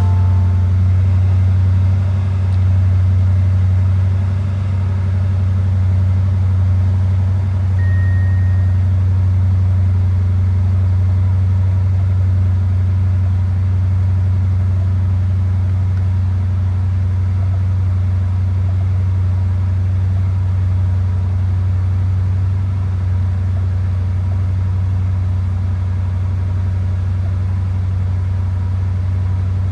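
Twin-turbo V8 of a 2022 Porsche Cayenne Turbo GT idling, a steady low drone.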